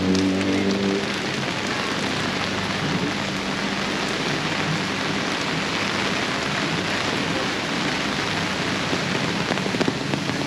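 Heavy rain falling steadily in a torrential downpour. A low humming tone fades out about a second in.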